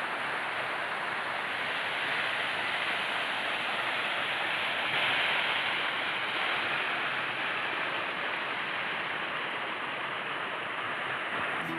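Small waterfall splashing and rushing in a steady, even roar of falling water, low in flow in the dry season.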